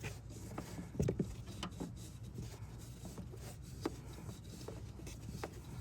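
Plastic tubing rubbing and scraping as it is hand-fed through a firewall grommet hole, with scattered light taps and knocks, the clearest about a second in.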